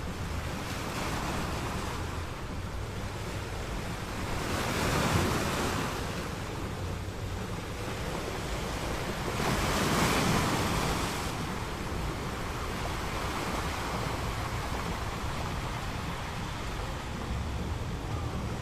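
Ocean waves breaking on a beach: a steady wash of surf with two larger waves swelling and receding, about a third of the way in and again past the middle.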